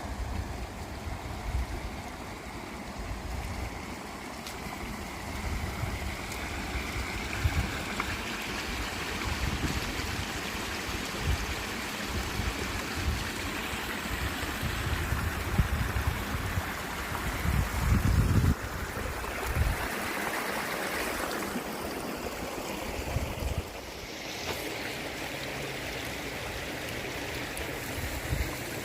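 Wind gusting against the microphone: irregular low rumbling buffets over a steady rushing noise, strongest about two-thirds of the way through.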